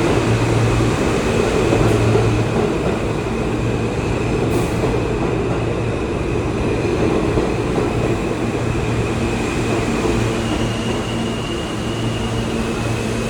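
R160B subway train with Alstom propulsion pulling into a station: a steady rumble of wheels on rail with a faint high whine that steps up in pitch about ten seconds in.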